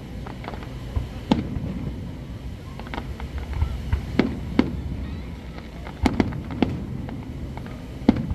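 Aerial fireworks display: about eight shell bursts at irregular intervals, sharp bangs each trailing off in a low rolling echo.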